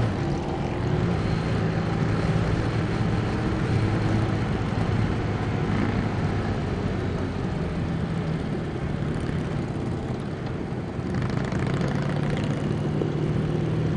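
Motorcycle engines cruising at freeway speed in a large group ride: a steady low engine drone over road and wind noise, easing a little past the middle and picking up again near the end.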